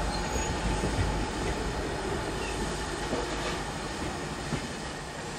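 Narrow-gauge passenger carriages rolling past, a steady rumble of wheels on the rails that slowly fades as the last coach goes by.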